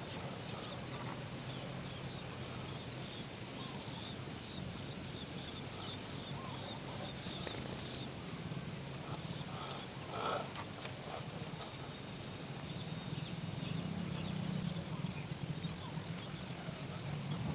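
Small bird chirping repeatedly: short, high chirps that slide downward, coming quickly in the first half and more sparsely later, over a steady low hum.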